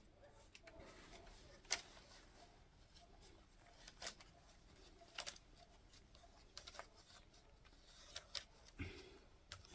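Faint, sparse clicks and light rustling: about half a dozen sharp little ticks spread irregularly over the ten seconds, over a quiet room hiss.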